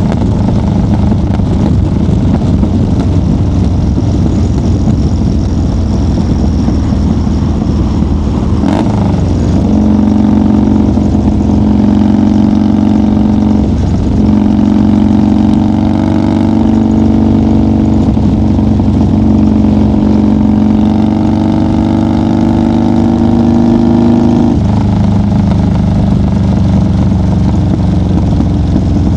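1990 Harley-Davidson FXR's 1340cc Evolution V-twin pulling hard under throttle. Its pitch climbs steadily, dips briefly twice at gear changes, then drops as the throttle closes about five seconds before the end.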